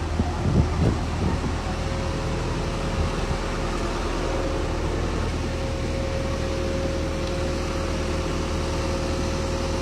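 Heavy machine's engine running steadily, with a few low thumps about half a second to a second and a half in.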